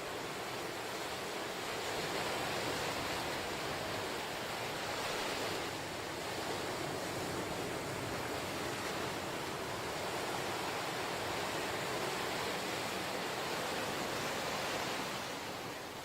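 Ocean surf washing on the shore in a steady rush, swelling gently every few seconds.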